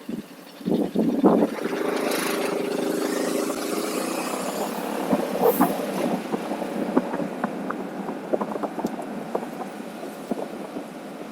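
Vehicle engine running, with a steady engine tone for a few seconds that then fades away, a few knocks near the start and scattered light clicks later.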